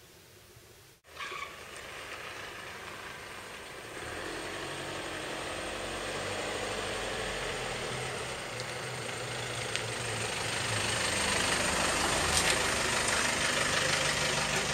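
A car's engine running, with a steady low hum that grows louder as the car draws near. The sound starts abruptly about a second in.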